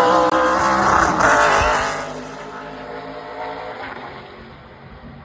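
NASCAR Craftsman Truck Series race truck's V8 engine running at speed past the track, loud at first and fading away after about two seconds.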